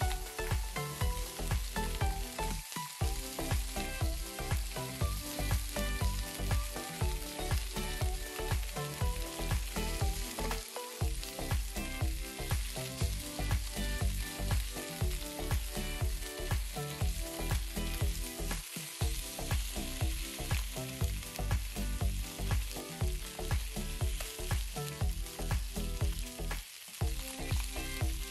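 Chicken wings sizzling steadily as they sear in a hot oiled pan, with metal tongs turning and shifting them now and then. Background music with a steady beat runs underneath.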